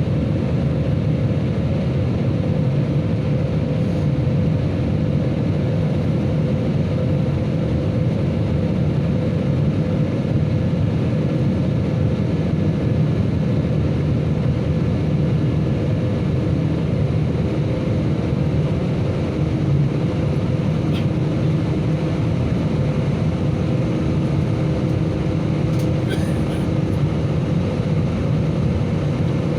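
Steady roar of a jet airliner's engines and airflow during the climb after takeoff, with a low steady hum underneath.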